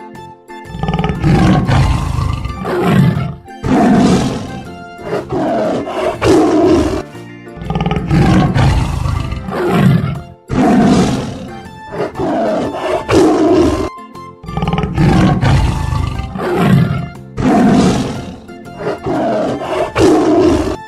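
Tiger roaring and growling in a run of loud bouts that repeat every few seconds, over soft background music.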